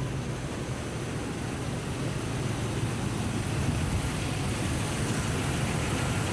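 2004 RAM 1500's 5.7L HEMI V8 idling steadily, freshly fitted with new exhaust manifold gaskets and bolts and being listened to for an exhaust manifold tick.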